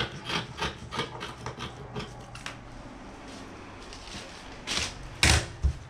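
Fiberglass matting being cut to length: a quick run of short, crisp snips, then two louder rustles near the end.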